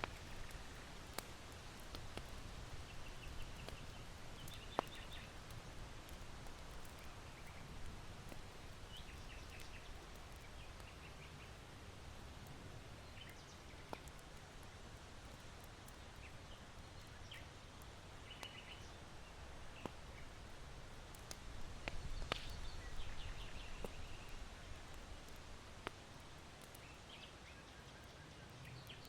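Charcoal embers in an irori hearth giving sparse, sharp crackles and snaps, while small birds chirp in short bursts every few seconds. Under them runs a low wind rumble, which swells about two-thirds of the way through.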